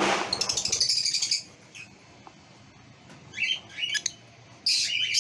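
Lovebirds chirping and squawking: a fast, loud run of chirps for the first second and a half, then a few short calls near the middle and at the end.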